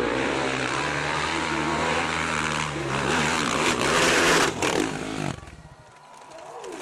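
Motorcycle engine running steadily with a loud noisy haze over it, cutting off abruptly about five seconds in.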